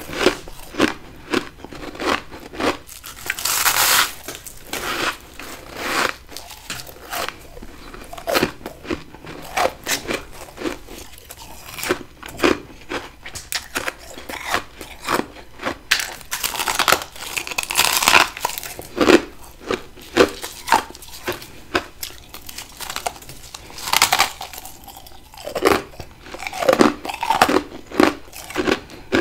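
A person biting and crunching mouthfuls of frost ice scraped from a deep freezer, close to the microphone. Many sharp crunches come in quick succession, with a few longer bursts of crackling.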